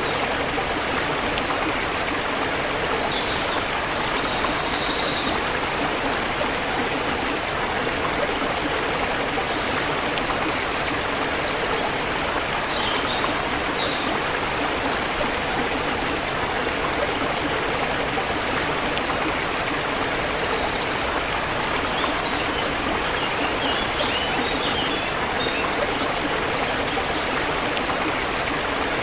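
Forest river water flowing steadily with an even rush. Birds chirp briefly twice, a few seconds in and about halfway, with fainter chirps later.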